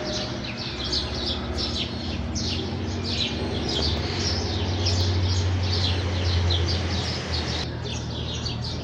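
A flock of house sparrows chirping, many short calls overlapping without a break. A low hum underneath swells in the middle and drops away near the end.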